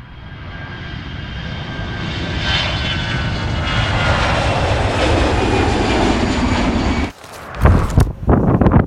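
A steady engine drone with several held tones, growing louder for about seven seconds, then cut off abruptly. Gusts of wind buffeting the microphone follow.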